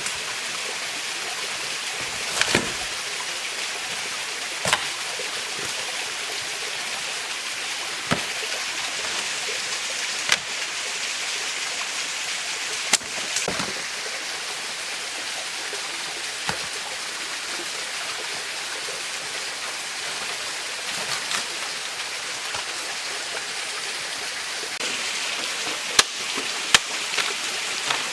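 A mountain stream running with a steady rush of water. A dozen or so short knocks and clicks are scattered through it, with two sharp ones near the end.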